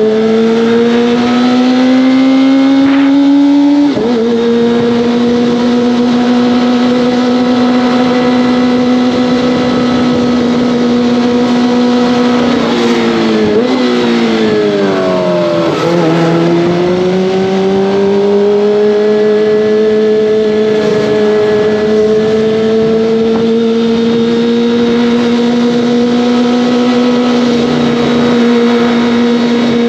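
Kawasaki ZX-25R's 250 cc inline-four engine and exhaust under way at high revs. The pitch climbs and then drops suddenly about four seconds in as it shifts up, holds steady, falls away briefly a little before halfway, and then slowly climbs again as the rider picks up speed.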